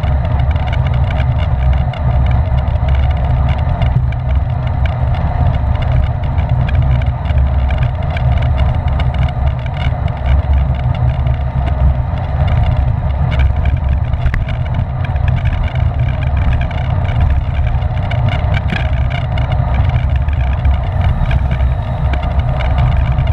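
Wind rushing over the microphone of a camera on a bicycle ridden at race speed: a loud, steady, low rumble with no let-up.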